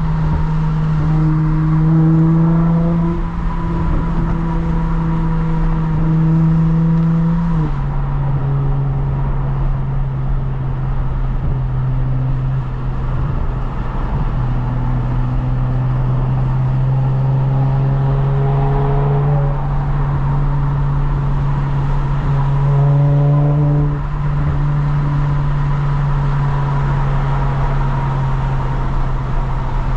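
Lexus IS350's 3.5-litre V6 droning at a steady cruise through a muffler-delete axle-back and resonated midpipe. The engine note drops in pitch once, about eight seconds in, then holds steady.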